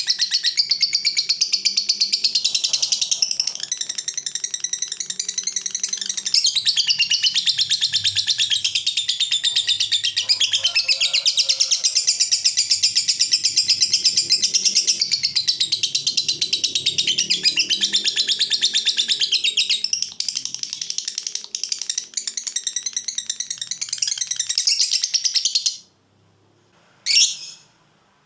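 A lovebird's long 'ngekek': one unbroken, rapid, high-pitched chattering trill lasting about 26 seconds. It stops abruptly and is followed by a single short call near the end.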